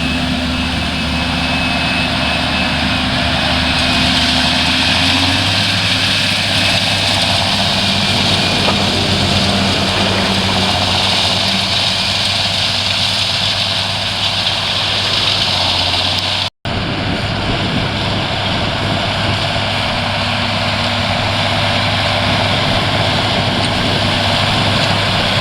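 Farm tractor engine running steadily under load while pulling a power harrow drill, its note shifting a few seconds in, over a steady hiss. The sound cuts out for an instant about two-thirds of the way through.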